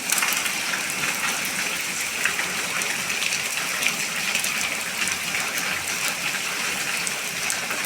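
Rain falling steadily: a dense, even hiss of rainfall with many small sharp drop ticks scattered through it.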